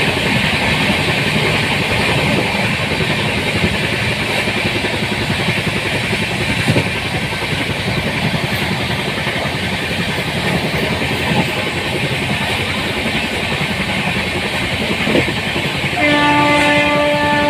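Express passenger train running at speed with a steady rumble and rail noise. About a second and a half before the end, a train horn begins blowing one steady note.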